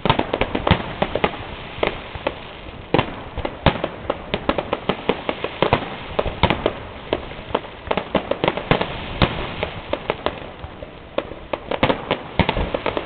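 Fireworks display going off: a rapid, irregular run of sharp bangs and cracks, often several a second, with no real pause.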